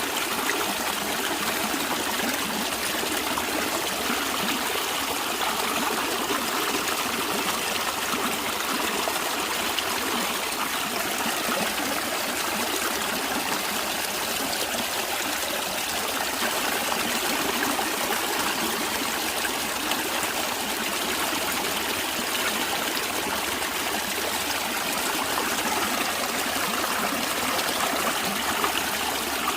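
A stream of water running and trickling steadily, an even rushing without change.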